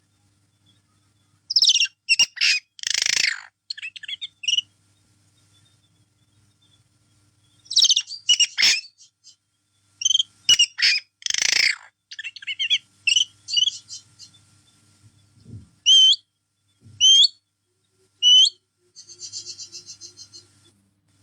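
Pet bird chirping and whistling in short bursts separated by silent gaps, with a few single up-and-down whistled notes and, near the end, a fast run of repeated chirps.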